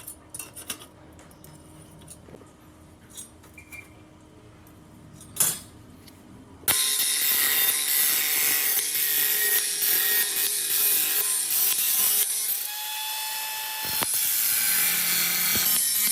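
Scattered light clicks and knocks of handling, then, about two-thirds of the way in, a power tool starts suddenly and keeps cutting or grinding, loud and steady with a whining tone.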